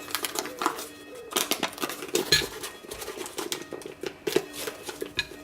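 Irregular clicks, knocks and clinks of kitchen utensils and containers being handled while working the soap, over steady background music.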